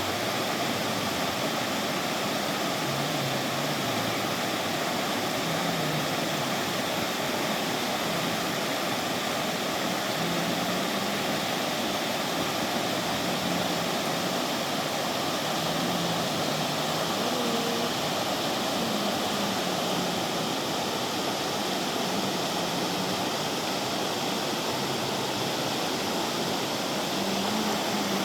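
River water rushing over its bed in a steady, unbroken flow.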